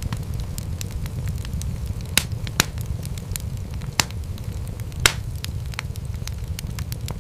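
Wood fire crackling: a steady low rumble of flames with frequent small pops, and four louder snaps scattered through.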